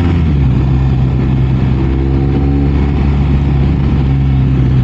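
BMW R 1250 RS boxer-twin engine under way: its pitch drops right at the start as the revs fall, then it holds steady at a cruising speed, with wind rushing past.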